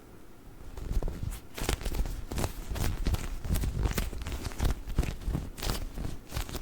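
Squishy dinosaur toy squeezed and tapped close to the microphone: a quick, irregular run of soft squishes and taps, starting about a second in.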